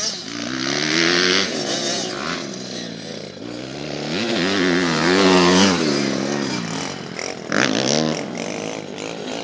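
Pit bike engines revving up and down, the pitch rising and falling with each change of throttle. They are loudest about five seconds in, with a short sharp rev near the end.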